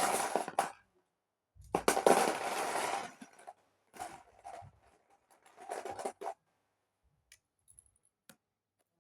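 Hands rummaging through and rattling plastic Lego pieces in bursts, three main bouts of a second or so each, followed by a few light clicks of pieces near the end.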